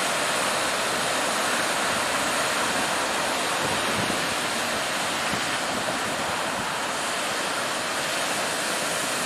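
Ocean surf washing steadily onto the beach, with some wind.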